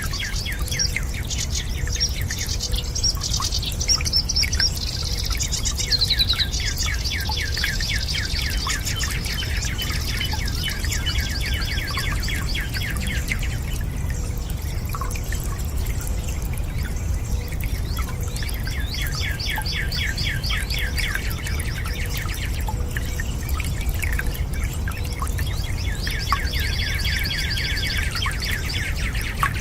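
Birds singing in rapid trills of short high notes, coming in three long bouts with pauses between, over a steady low rush of flowing water with a few faint drips.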